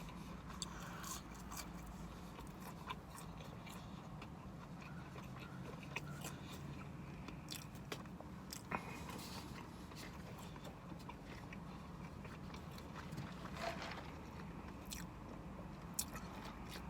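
A person chewing food close to the microphone, with faint scattered mouth clicks.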